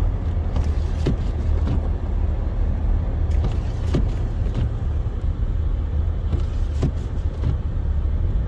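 Car driving on a snow-covered highway, a steady low rumble of engine and tyres, with a few scattered sharp ticks.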